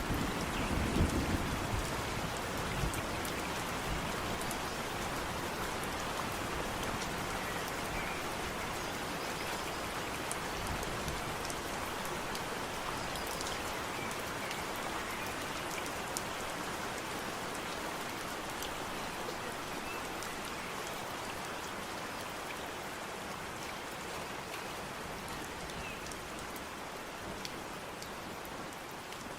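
Steady rain falling on foliage and ground, with many small drop ticks. A low rumble of thunder dies away in the first few seconds, and the rain grows slowly quieter.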